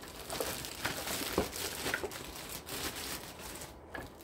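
Packaging crinkling and rustling, with a few short knocks, as the parts of a new robot vacuum are unpacked; it quietens near the end.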